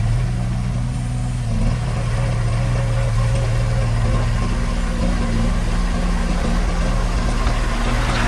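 Heavy construction machine's diesel engine running steadily at a low, even note.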